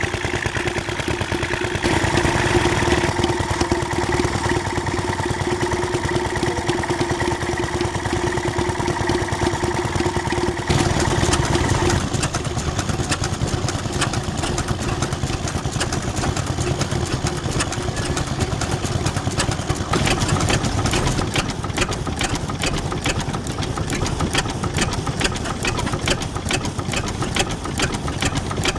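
Vintage stationary engines running steadily. The sound changes about a third of the way in and again about two-thirds in. In the last part it is a fast, even beat of firing strokes.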